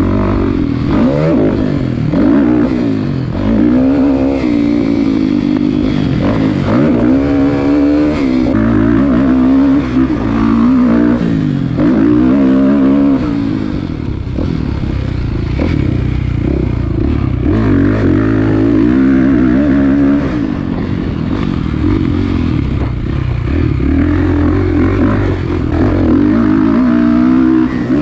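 Kawasaki KX450F dirt bike's four-stroke single-cylinder engine, ridden hard, rising and falling in pitch over and over as the throttle is opened and closed and the gears are changed.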